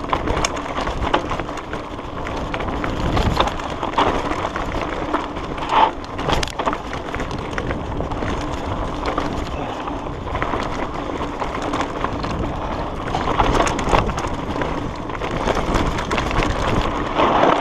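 Mountain bike rolling fast over a rough dirt trail: a steady rush of tyre and wind noise with frequent sharp clicks and knocks from the bike rattling over stones and roots.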